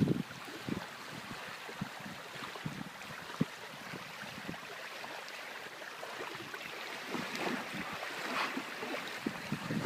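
Outdoor wind and water noise: a steady rushing haze with scattered soft low thumps.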